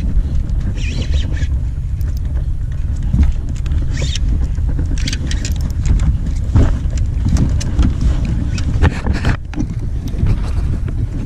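Wind buffeting the microphone as a steady low rumble, with brief scrapes and a few knocks over it.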